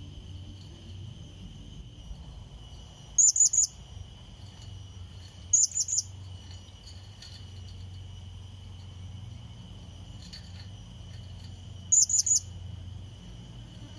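Blue-crowned hanging parrot (serindit) giving short bursts of three or four sharp, high chirps, three times: about 3 seconds in, about 5.5 seconds in, and near the end. These are a decoy bird's calls to rival serindit. A steady high insect-like drone runs underneath.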